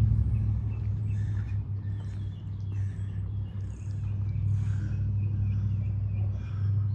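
Outdoor ambience: a steady low drone with small birds chirping repeatedly over it.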